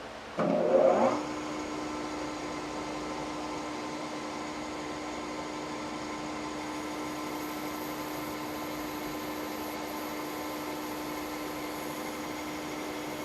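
Milling machine spindle spinning up, with a short loud rising whine about half a second in, then running at a steady speed with an even hum.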